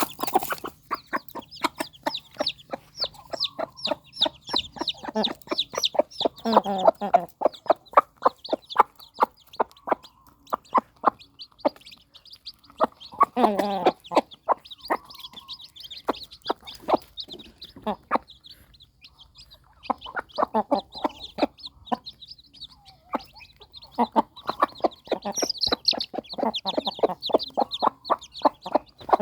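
Chickens calling without pause, with dense, rapid high-pitched cheeps from newly hatched chicks. Louder, lower calls stand out about six seconds in and again near fourteen seconds.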